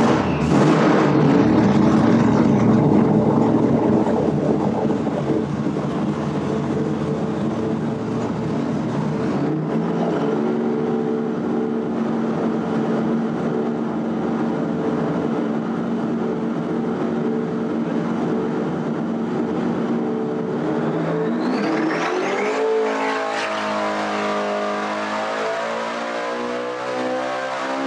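Supercharged LS V8 running on an engine dyno: it holds a steady speed, then about 22 seconds in its pitch climbs as it is swept up through the revs under boost.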